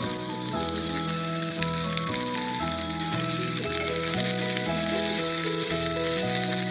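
Potatoes and soya chunks sizzling in hot mustard oil in a kadai as they are stirred in with a spatula; the sizzle grows louder about three seconds in. Background music with a steady run of bass and melody notes plays over it.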